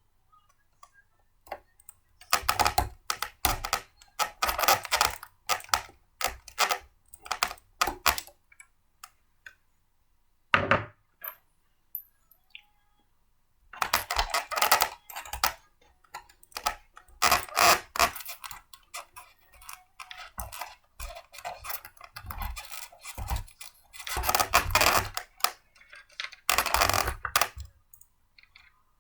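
Small hard parts of a blender clinking, clicking and knocking as they are picked up and fitted together by hand, in irregular flurries with short pauses between.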